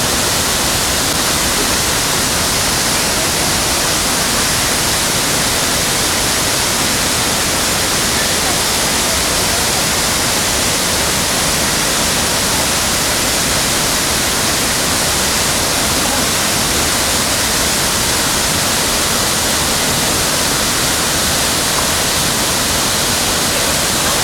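Big waterfall pouring, a loud, steady rush of water that stays even throughout.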